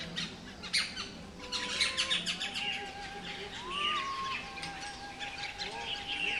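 Many small birds chirping and calling at once, a dense run of quick overlapping high chirps.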